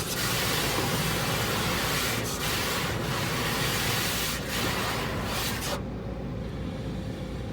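Automatic car wash spraying water over the car, heard from inside the cabin as a steady hiss with a few knocks. The spray cuts off suddenly about six seconds in, leaving a lower hum.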